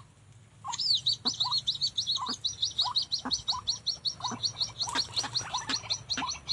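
Birds calling: a rapid run of high, short chirps, several a second, over a lower call note that repeats about once a second.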